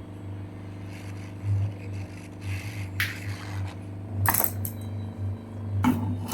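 Small tools scraping and clicking on a mobile phone under repair, three short sharp sounds a second or so apart, over a steady low hum.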